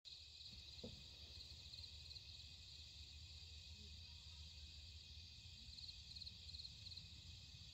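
Faint, steady chirring of insects, with runs of rapid pulsing trills near the end, over a low background hum.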